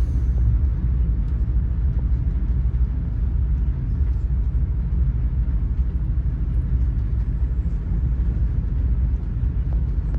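Steady low rumble of a Lumo Class 803 electric train running at speed, heard from inside the passenger coach, with a faint hiss over it.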